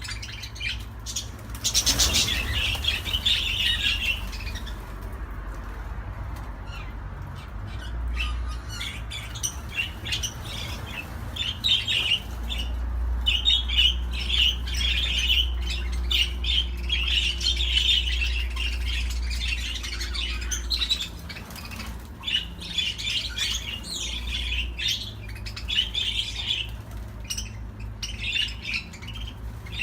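Budgerigars chattering and warbling continuously, with quick chirps and squawks. There is a brief loud rustle about two seconds in and a steady low hum underneath.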